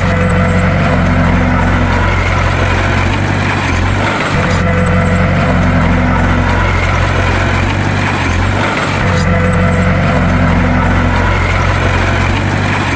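Bulldozer diesel engine running steadily with a deep, loud drone. The sound dips briefly about every four and a half seconds in the same pattern each time.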